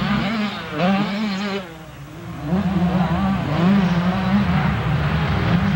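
Motocross bikes racing, their engines revving up and down. The sound drops away briefly about two seconds in, then comes back louder.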